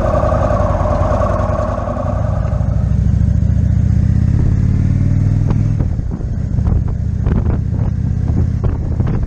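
Motorcycle engine running while riding at low speed, with wind rushing over the microphone in the first couple of seconds. The engine pitch rises a few seconds in and drops about halfway through, followed by a series of short knocks and clatters.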